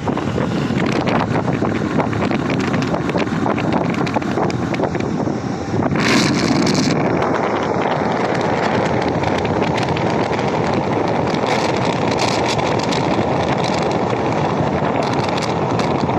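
Wind rushing over the microphone of a moving Honda Activa 6G scooter, with road and traffic noise under it. A brief louder rush comes about six seconds in.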